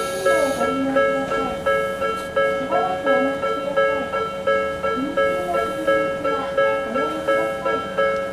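Railway level-crossing warning bell ringing steadily, a repeating electronic clang of about one and a half to two strikes a second, each strike dying away before the next.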